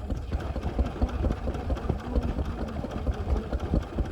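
Vintage stationary engine running steadily at idle, with a regular low beat of firing strokes.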